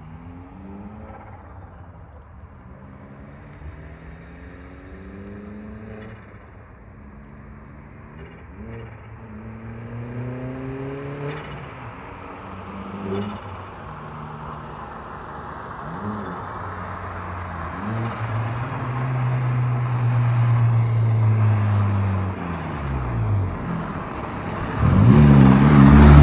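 Turbocharged Audi A4 engine, muffler deleted, accelerating through several gears: its pitch climbs, drops back at each shift and climbs again, getting louder. Near the end it falls away, then a hard rev climbs sharply and is the loudest part.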